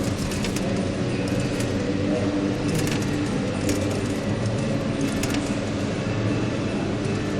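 Claw machine and arcade machines humming steadily, with scattered short metallic clicks and jingles every second or so.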